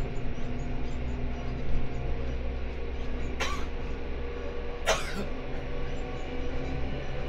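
Seibu 10000 series electric train running, heard from inside the passenger cabin: a steady rumble with a steady hum. Two sharp knocks, about a second and a half apart, come near the middle.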